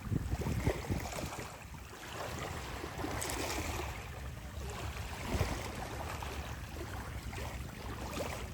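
Sea waves washing onto the shore, swelling and ebbing, with wind rumbling on the microphone.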